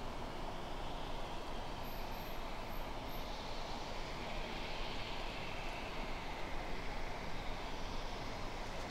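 A distant train running: a steady, fairly faint noise with a soft higher hiss that swells a little toward the middle.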